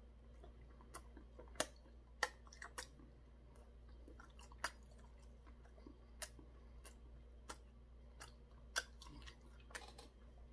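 Chewing of crispy Korean deep-fried twigim: scattered sharp crunches and mouth clicks, about a dozen at irregular intervals, over a faint steady low hum.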